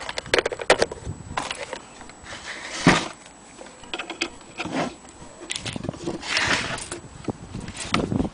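Irregular knocks, clicks and rustling, like something being handled, with one louder knock about three seconds in.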